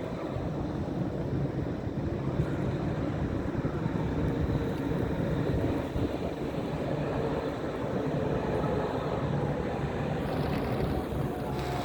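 Steady low rumble of a vehicle running, with a faint steady whine above it.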